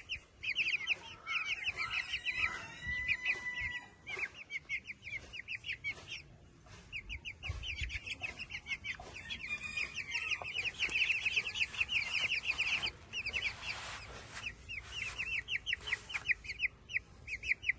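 A flock of chickens clucking and calling, many short high calls overlapping in a dense run, with a brief quieter stretch about six seconds in.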